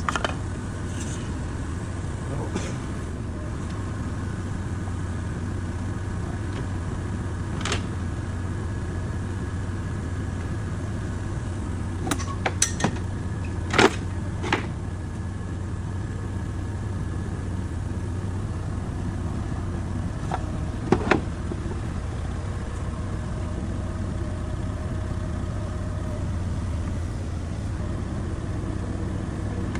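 A steady low mechanical hum like an idling motor, with a few sharp clanks and knocks: one about a quarter of the way in, a cluster near the middle, and a pair about two-thirds of the way through.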